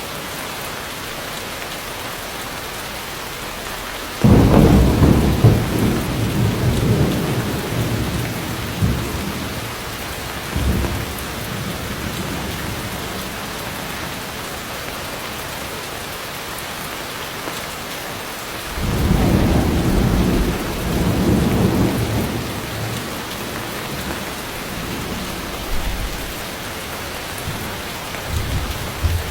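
Heavy rain falling steadily, with rolls of thunder. A sudden loud crack about four seconds in rumbles away over several seconds, and a second long rumble comes about two-thirds of the way through, with a few fainter low rumbles between and near the end.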